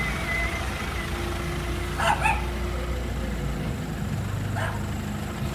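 Vehicle engine running steadily, with a dog barking twice about two seconds in and once more near the end.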